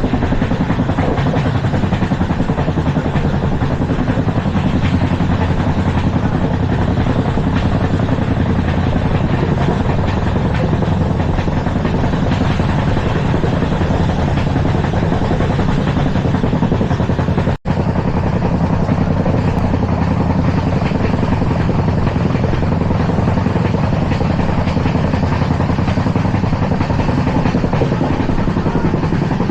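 An LHB passenger coach running at speed: a steady, loud rumble and clatter of wheels on rail. It cuts out for an instant about 17 seconds in.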